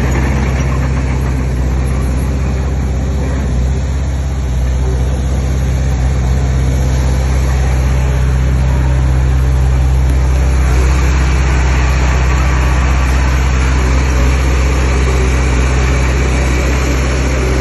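Heavy diesel engine of earthmoving machinery running steadily, with a constant low drone and a mechanical clatter that grows somewhat louder about halfway through.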